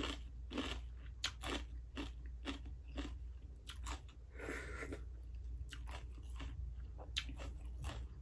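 Crunchy chewing of raw vegetables: a steady string of crisp crunches, about two to three a second.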